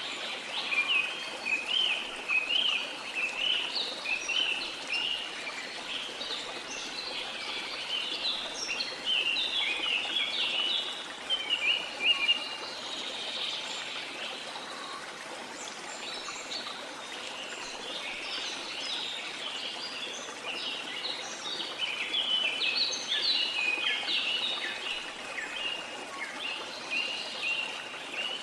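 Birds chirping and twittering in quick runs of short notes over a steady rush of falling water, the chirping thinning out for a while in the middle.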